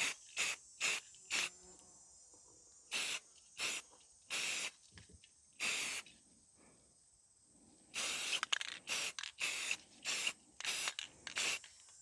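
Green spray paint being spritzed in short hissing bursts: a few spaced apart at first, then a quick run of rapid spritzes over the last four seconds.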